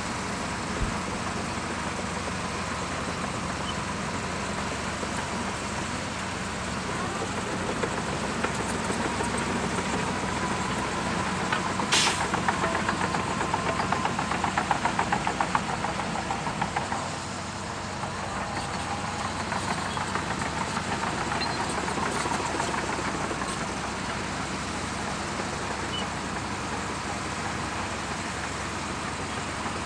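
Bulldozer diesel engine running steadily under work. About midway there is a sharp knock, then a quick metallic rattling clatter for a few seconds before it settles back to a steady run.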